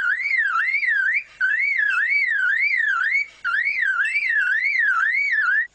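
Male superb lyrebird mimicking a car alarm: a loud, whistled, warbling tone that sweeps up and down about three times a second. It comes in three phrases with brief breaks and stops just before the end.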